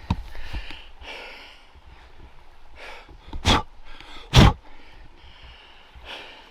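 A man breathing hard from exertion, with two loud gasping breaths about three and a half and four and a half seconds in.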